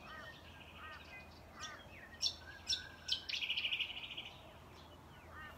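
Garden birds calling: several sharp high chirps, a fast buzzy trill a little past the middle, and softer repeated chirps throughout.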